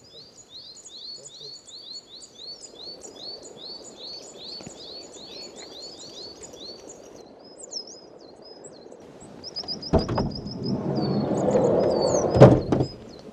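A small bird sings a quick falling note over and over, about three a second, then gives other chirps and a short trill. About ten seconds in, a campervan's sliding door rumbles open with a few knocks, the loudest near the end.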